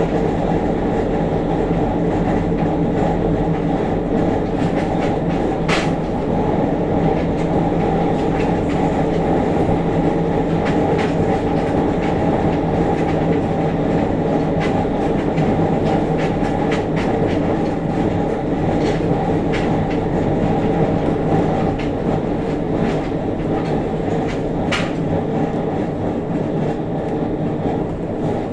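JR Kyushu 303 series electric train heard from above a motored bogie while running at speed: a steady, loud growl from the traction motor and gearing over wheel rumble. The uploader calls it an abnormal noise: a groan from around the motor, with heavy vibration as the motor turns. Two sharp clicks come through, about six seconds in and again near the end.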